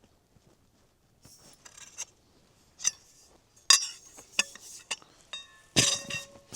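Kitchenware being handled: a string of clinks and knocks, some ringing briefly, starting about a second in and loudest near the end.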